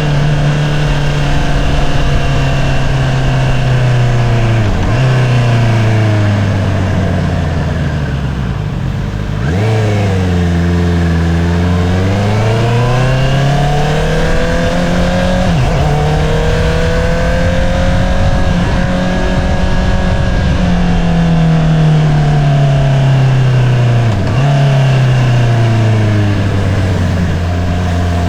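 2022 Honda CBR650R inline-four running through an Akrapovič single-outlet exhaust while riding. The engine note slides down and up in pitch several times as the throttle is opened and closed, with a few brief sharp breaks in the note.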